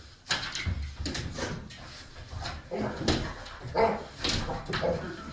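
A dog whining and yipping in a string of short vocal sounds, several in a row.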